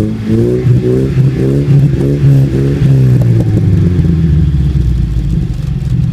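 UAZ engine heard through an exhaust with its resonator section ('flute') removed, revved in a quick series of throttle blips, the pitch rising and falling about twice a second for the first three seconds, then running steadily at a lower, even pitch.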